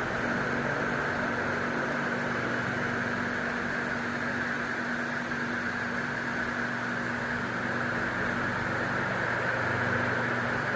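Jinyoung Hitech oscillating electric fan (120° left-right sweep) running: a steady rush of air with a low, even motor hum.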